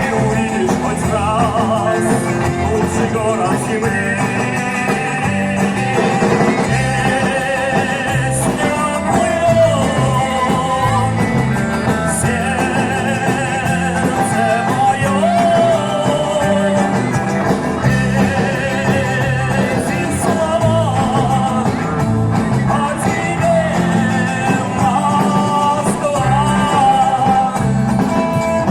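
Live music from a Soviet-style vocal-instrumental ensemble (VIA): a band playing a song, with a wavering melody line over a steady bass backing.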